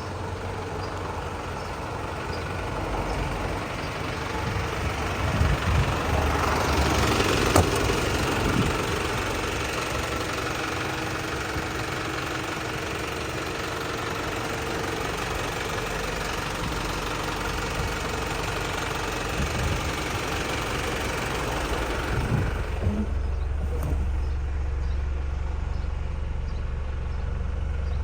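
Volvo FL240 truck's diesel engine running at idle. It is a little louder for a couple of seconds early on, and about 23 s in the sound narrows to a steady low hum.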